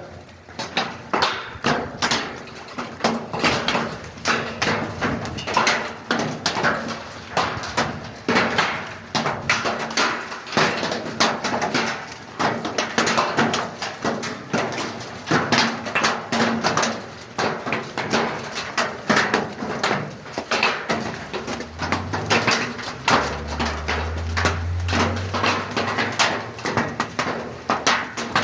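Large hailstones drumming on a roof, a dense, irregular patter of hard hits. A low rumble joins in near the end.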